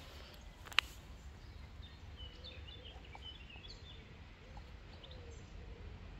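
Birds chirping faintly over a steady low rumble of background noise, with one sharp click just under a second in.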